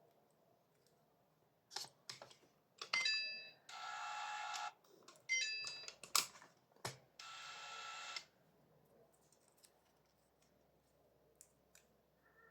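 Fibre-optic fusion splicer in operation: a few clicks, two short runs of electronic beeps, and two buzzing tones lasting about a second each.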